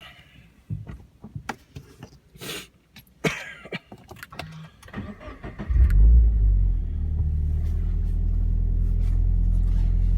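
Scattered clicks and knocks, then about six seconds in a Toyota 86's 2.0-litre flat-four starts with a loud flare and settles into a steady idle, heard from inside the cabin. The idle has a very deep tone through a Kakimoto Class KR quad-exit aftermarket exhaust.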